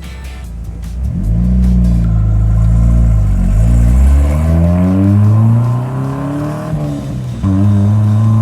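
A car engine accelerating hard: its pitch climbs from about a second in, dips briefly as it shifts gear around three and a half seconds in and climbs again, falls away around six seconds, then comes back on loud and steady near the end.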